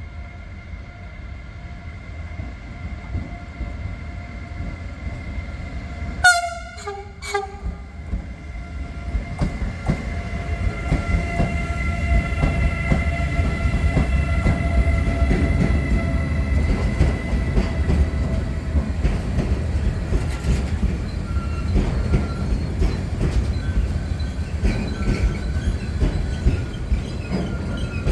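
A train sounds a short horn blast about six seconds in as it approaches. It then passes close by, its wheel rumble and rail clatter growing louder, with a steady high ringing from wheels on the rails.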